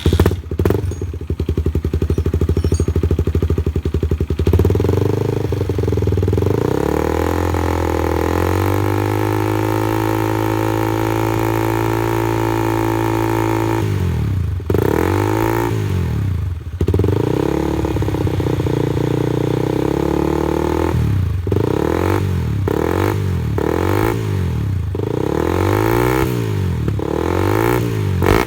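Honda CB150R single-cylinder four-stroke motorcycle engine running through a handmade exhaust. It idles, is revved up and held at high revs for several seconds, then drops back. Near the end it is blipped in a series of quick revs.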